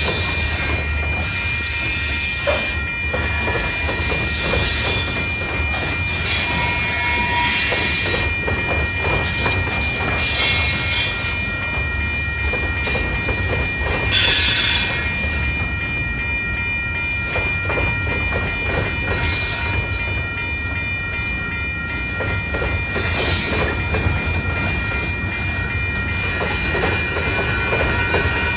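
Freight train of covered hopper cars rolling past at a grade crossing: a continuous rumble and clatter of wheels on the rails, with steady high-pitched tones running over it and a louder, brighter surge about halfway through.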